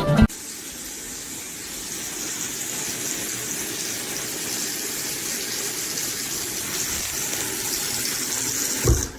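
Water running steadily, a rushing hiss that builds slightly, with a thump near the end.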